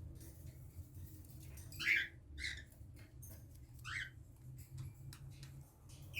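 Baby cockatiel chick, about three weeks old, giving three short squeaky calls, the first and loudest about two seconds in.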